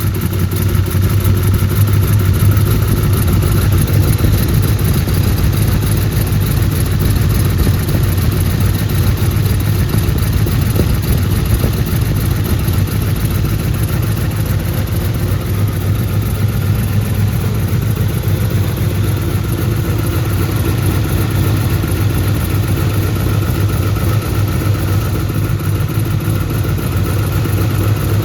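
Turbocharged Pontiac V8 of a Trans Am running steadily and evenly on its first start after a partial rebuild, on break-in oil for a new flat-tappet camshaft.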